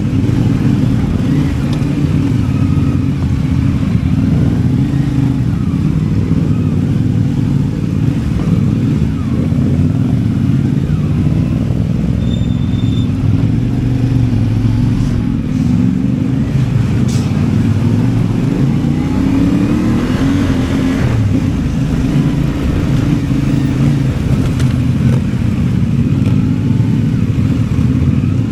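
CFMOTO 450MT's parallel-twin engine running under way, its pitch rising and falling with the throttle.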